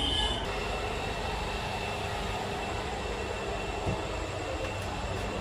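Steady running noise heard inside an Indian Railways air-conditioned coach, a continuous rumble and hiss with a faint high whine, and a single soft knock about four seconds in.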